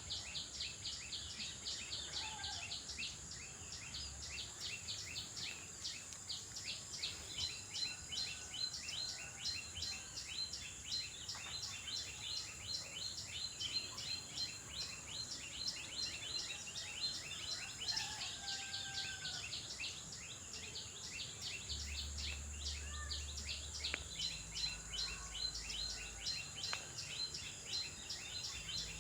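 Common tailorbird (Javan race) calling loudly, a rapid unbroken series of repeated sharp chirps, over a steady high-pitched insect drone, with a few softer notes from other birds.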